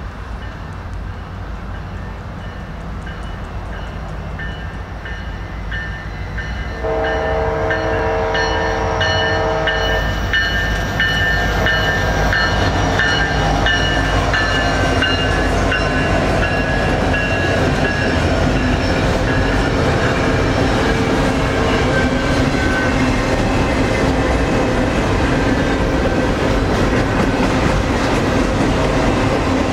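Union Pacific diesel locomotive approaching and passing, with a single horn blast of about three seconds, held as one chord, starting about seven seconds in. After it, a double-stack container train rolls steadily by with wheel clatter and rumble.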